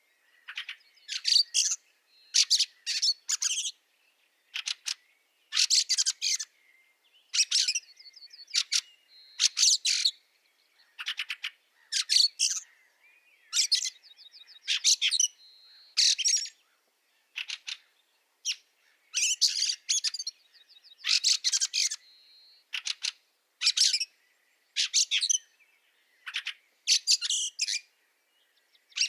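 Fieldfares giving harsh, chattering chack calls in quick runs of two to four, over and over. A softer, thinner rattling trill runs underneath a few times.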